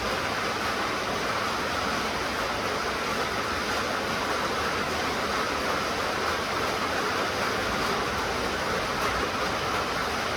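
Steady rain falling, a continuous even hiss with no distinct drops or breaks.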